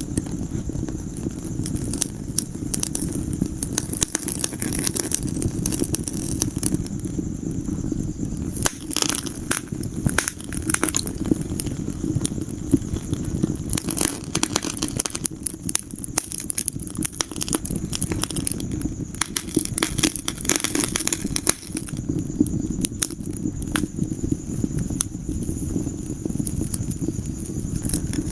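Wood fire crackling and popping in a fireplace, with frequent sharp snaps over a steady low rumble of the flames.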